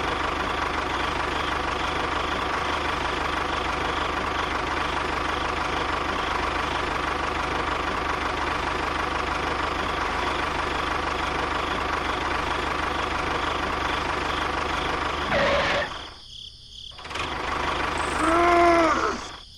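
An engine or motor running steadily, cutting off about fifteen and a half seconds in. Near the end there are a few short pitched sounds that bend up and down.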